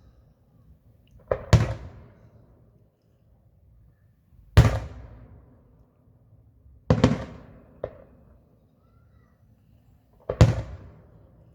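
Fireworks display: aerial fireworks bursting with loud bangs every two to three seconds, some in quick pairs, each bang trailing off over about a second.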